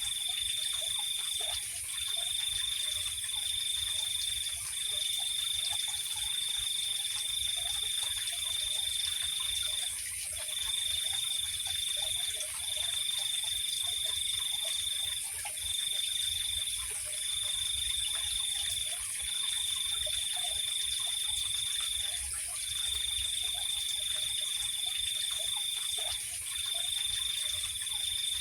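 Insect chorus: a steady high-pitched trill that breaks off briefly every few seconds and resumes, over a higher continuous buzz and a faint low rumble.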